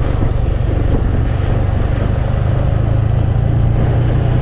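Vehicle engine and road noise while driving, a steady low drone.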